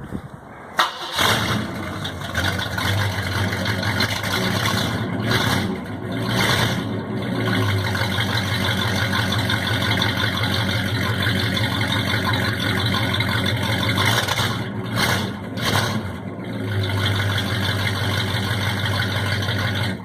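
A 1965 Ford Thunderbird's 390 V8 starts up about a second in and runs steadily, with a few short blips of the throttle.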